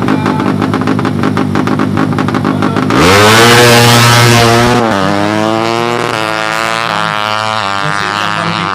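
Four-stroke 200cc underbone drag bike engine held at a steady, crackly rev. About three seconds in, the note jumps louder and sweeps up as the bike launches. It shifts up about two seconds later and keeps climbing in pitch as it accelerates.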